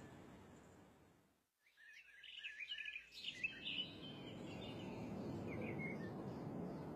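Birds chirping over a steady outdoor hiss. A quick run of short chirps comes about two seconds in, after a brief silence, and scattered chirps follow.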